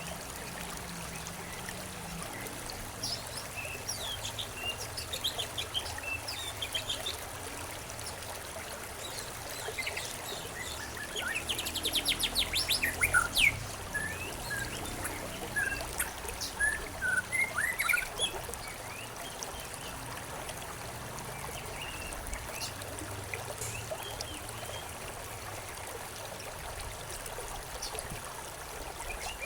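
Small birds chirping over a steady trickle of running water. The chirps are scattered at first and gather into a busy, rapid run about halfway through, then thin out again.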